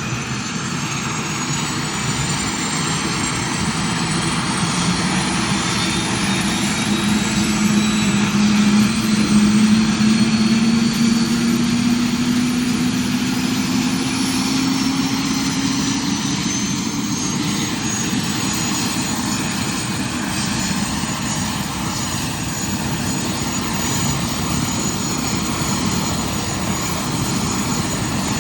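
UH-72 Lakota helicopter's turbine engines spooling up during startup. A high turbine whine climbs slowly over a steady rush, and a lower tone rises with it as the rotor comes up to speed.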